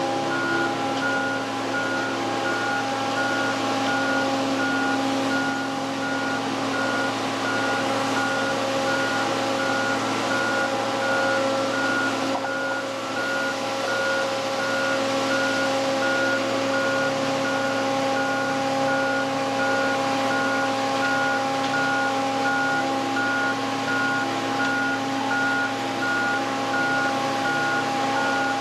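A machine running steadily with several held tones, over which an electronic beep repeats quickly and evenly throughout.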